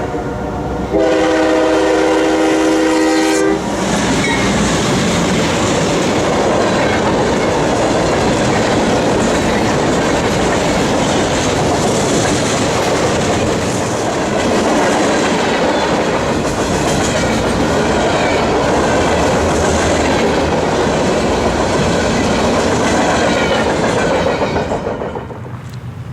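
Locomotive air horn sounding a chord, breaking off briefly and blowing again until about three and a half seconds in, then a train passing close by with a steady heavy rumble and clatter of wheels on rail that drops away near the end.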